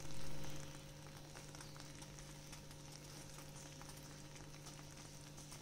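Lapsi (broken-wheat sweet) sizzling faintly in ghee in a pan on the stove as its last water cooks off. A short louder noise at the very start fades within a second, and a steady low hum runs under the sizzle.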